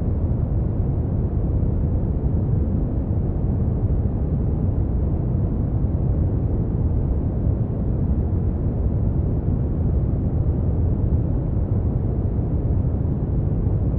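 Brown noise: a steady, deep rushing hiss, heavy in the low end and dull above, that does not change.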